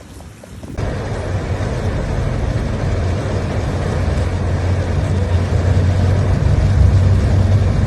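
Motor vehicle running: a steady low hum under a dense rushing noise. It starts abruptly about a second in and slowly gets louder.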